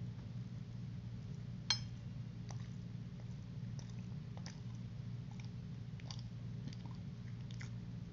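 A person chewing a bite of tender grilled chicken breast, with soft, irregular mouth clicks over a steady low hum. About two seconds in, a metal fork clinks once on a ceramic plate with a short ring.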